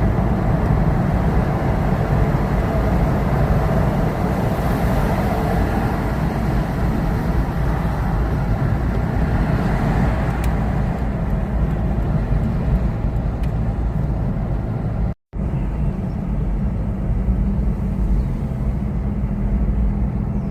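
Steady low rumble of a vehicle's engine running under way. It breaks off in a split-second gap about 15 seconds in, then carries on the same.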